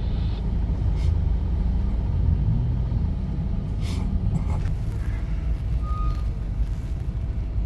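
Steady low rumble of vehicle engines running at a ferry's vehicle loading area, with a few faint clicks and a brief faint beep about six seconds in.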